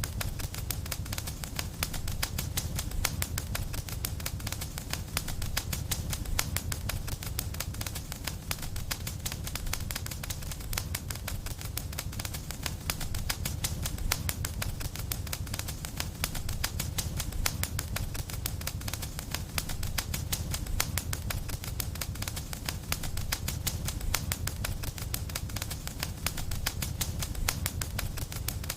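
Wood fire in a fireplace crackling: a dense, continuous stream of small pops and snaps over a steady low rumble.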